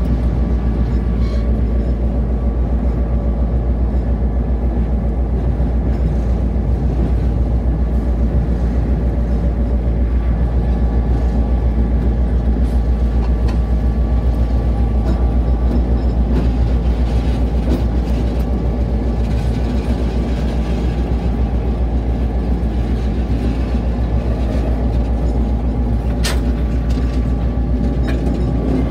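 Diesel locomotive under way, heard up close from its end platform over the coupler: a steady loud engine drone with the rumble of wheels on rail. One sharp click sounds near the end.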